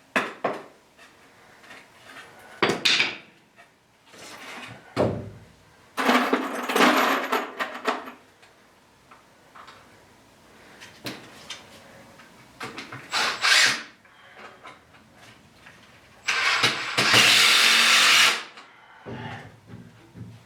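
Cordless drill driving screws into a wooden frame in two runs of about two seconds each, with short knocks and handling of the lumber in between.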